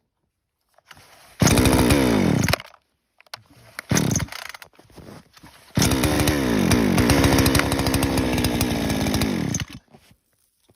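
Two-stroke chainsaw engine running in short loud stretches, a brief one and then a longer one of about four seconds, the engine pitch falling as the revs drop in each, each stretch cutting off abruptly.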